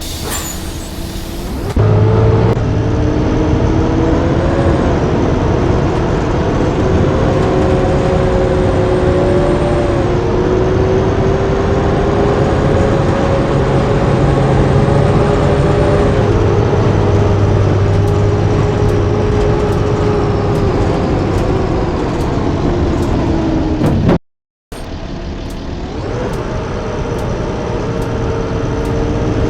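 Blue Bird bus engine running under way, its pitch rising and falling slowly with the drive. It starts with a short hiss, and near the end the sound drops out briefly before the engine resumes.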